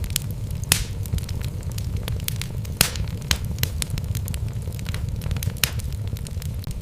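Wood logs burning in a fireplace, crackling with irregular sharp pops over a low steady rumble, including a couple of louder pops about a second in and near three seconds in.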